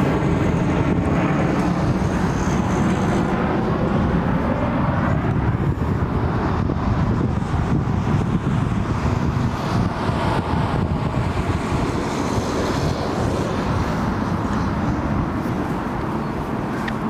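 Jet airliner's engines roaring overhead, the pitch dropping as it passes, then a steady broad rumble that eases off slightly near the end.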